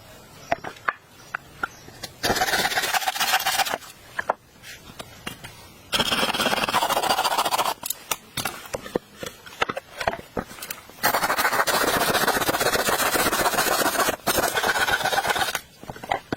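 Three long stretches of rasping, scraping strokes, the last and longest lasting about four seconds, with light clicks and taps in the pauses between them.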